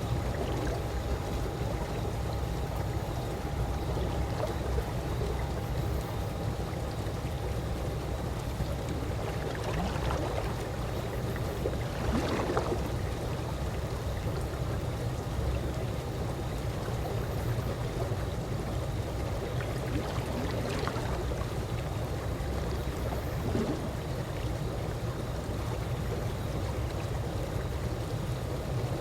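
Calm pool water lapping and trickling steadily, with a few soft splashes, the loudest about twelve seconds in, over a low rumble.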